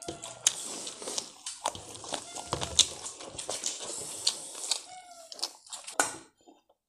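Close-up eating sounds: wet chewing and lip-smacking of a mouthful of rice and goat meat, with many small sharp clicks of the mouth, dying away near the end.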